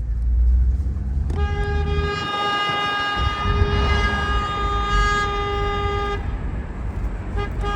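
Vehicle horn held steadily for about five seconds, then two short toots near the end, over a low engine and road rumble.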